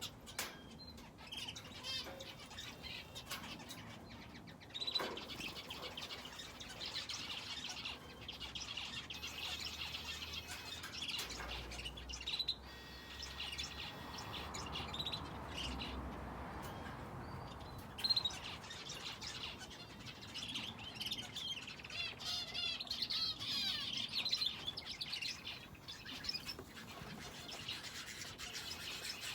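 Aviary finches and a canary chirping and twittering: many short, high calls overlapping without pause, with a few sharp clicks among them.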